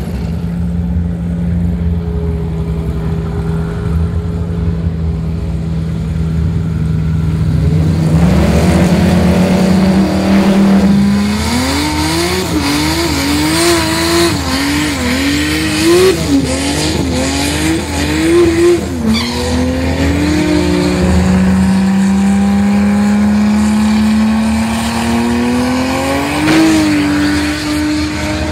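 Turbocharged Nissan RB30 straight-six in a Holden VL Commodore drag car idling steadily, then revving up into a burnout: the engine pitch swings up and down repeatedly as the rear tyres spin and squeal. About two-thirds of the way in the revs drop back, then climb slowly as the car pulls forward.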